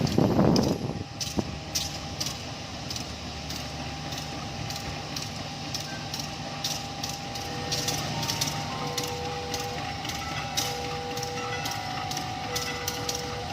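Railway sound at a station: a brief loud rush at the start, then a steady low rumble with many irregular clicks and knocks, typical of a train running over the rails. From about halfway a repeating beep sounds about once a second over a faint steady tone.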